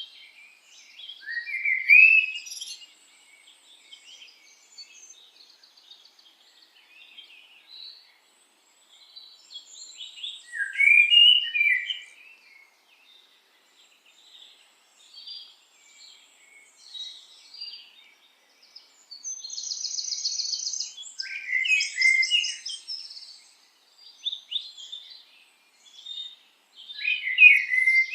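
Birds chirping and singing, with louder warbling phrases about every eight to ten seconds and quieter twittering in between.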